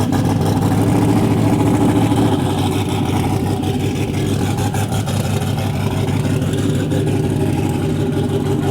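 Truck engine running at a steady idle, its pitch holding level with no revving; the sound eases slightly a couple of seconds in.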